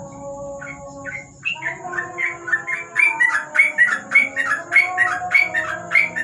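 Yellow-vented bulbul (trucukan) chirping: a rapid run of short calls, about three a second. It starts about a second in and grows louder.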